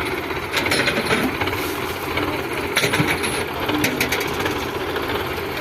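Tractor diesel engine running steadily, with bursts of rapid metallic rattling a little after the start, around the middle and about four seconds in.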